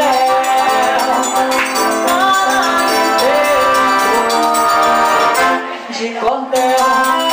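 Live forró music: accordion, guitar, zabumba drum and hand percussion playing a dance rhythm, with a voice singing over it. The band briefly thins out about six seconds in, then comes back in full.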